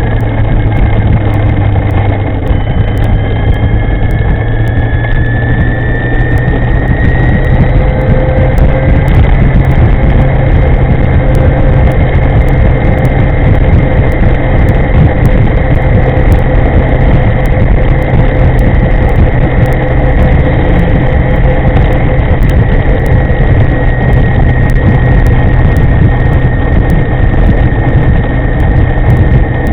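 Electric scooter riding at speed: heavy wind rush over the microphone with a steady low rumble, and a high motor whine that climbs in pitch a few seconds in, then holds steady.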